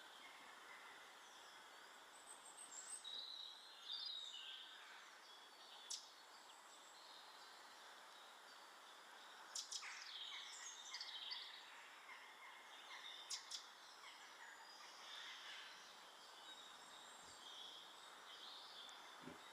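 Faint chirps and short calls of small garden birds over a steady background hiss, with a few sharp clicks.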